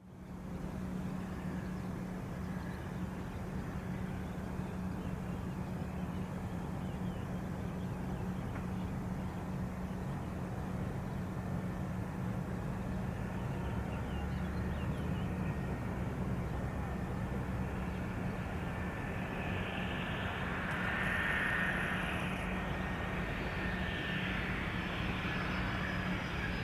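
Jet engines of a Boeing 717 on approach to land: a steady rumble, with a turbofan whine that builds in the second half and is loudest about 21 seconds in.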